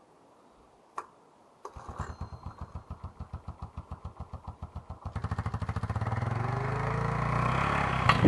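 Honda TRX200SX's single-cylinder four-stroke engine being cold-started: after a click about a second in, the starter cranks it over in even pulses for about three seconds. About five seconds in it catches and runs, its speed rising.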